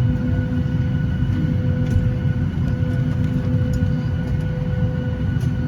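Steady cabin noise inside a Boeing 737-900ER on the ground before takeoff: an even low rumble with a constant hum at several fixed pitches and a few faint clicks.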